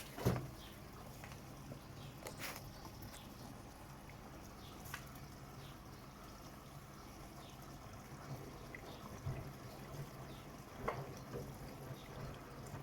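Bosch WAT286V0 washing machine in the wash phase of a 90°C cotton programme: water sloshing in the turning drum over a low, steady motor hum, with scattered splashes and knocks, the loudest just at the start.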